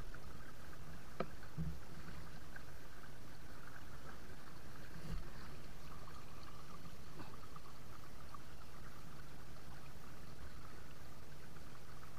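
Steady rush of rain-swollen runoff water flowing through a channel, with a couple of faint clicks about one and five seconds in.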